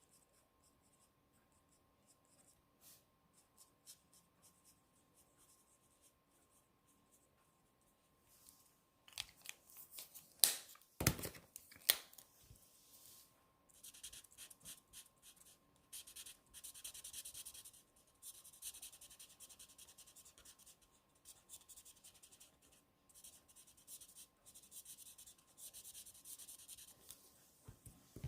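Faint scratchy strokes of alcohol-based marker nibs rubbed back and forth on cardstock while colouring and blending, with a few sharp clicks around ten to twelve seconds in.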